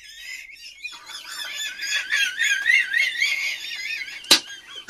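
A person's high-pitched, wavering squeal, a drawn-out silly vocal noise whose pitch wobbles up and down for about four seconds. A sharp click near the end.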